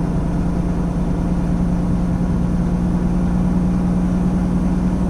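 Semi truck's diesel engine running steadily while under way, with tyre and road noise, heard inside the cab: an even low drone with a steady hum that does not change.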